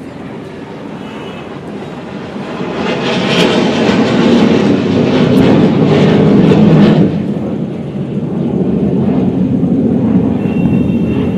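Jet aircraft flying past at an air show: a loud roar builds over a few seconds, peaks, drops off suddenly about seven seconds in, and a lower rumble carries on.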